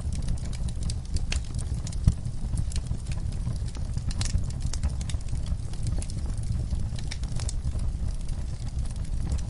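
Wood fire in a fireplace crackling: irregular sharp pops and snaps over a steady low roar of burning, with one louder pop about two seconds in.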